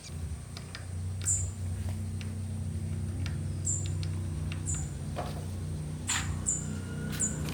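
A small engine starts up and runs steadily with a low hum. Short, high, falling chirps, like small birds, sound over it several times.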